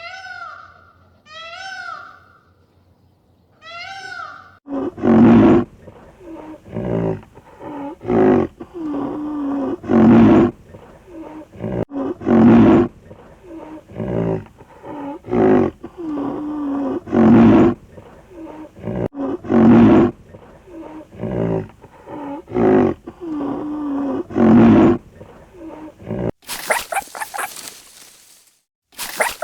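A cat meows a few times, short high calls. Then a donkey brays: a long run of loud, rough hee-haws, repeating every couple of seconds for about twenty seconds, ending in a brief burst of rustling noise near the end.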